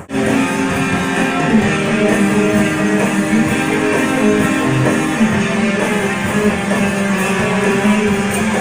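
Instrumental guitar music, strummed chords with sustained notes, starting suddenly and playing steadily at a loud level.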